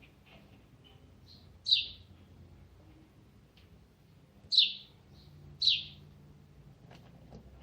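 A bird chirping: three loud, short, high calls that each drop quickly in pitch, about a second and a half in and twice more near the middle, with a few softer chirps between them.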